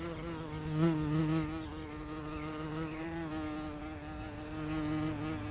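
A steady buzzing drone with a slight wobble in pitch, starting and stopping abruptly.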